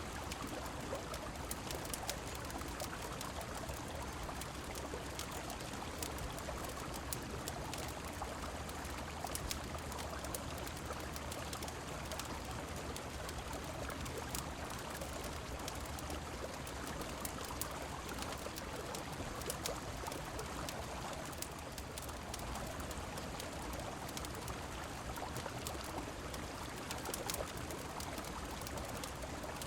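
Steady rush of a flowing river with rain falling, dotted throughout with brief sharp crackles from a wood fire in a fireplace.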